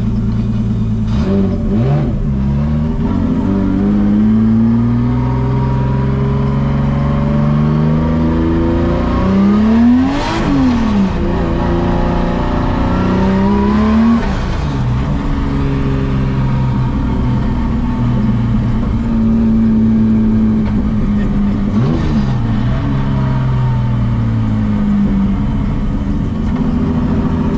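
Nissan Skyline R32 drift car's engine pulling on the road, its revs climbing and dropping again and again as it accelerates and changes gear. There is a sharp crack about ten seconds in, at the top of a hard rev.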